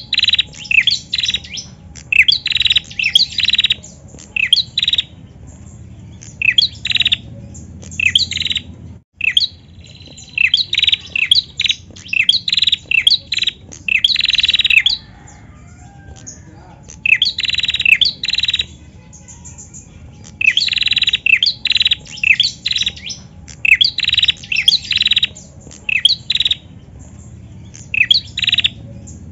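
Caged female prenjak calling in bursts of rapid, sharp chirps, several notes a second, with short pauses between the bursts.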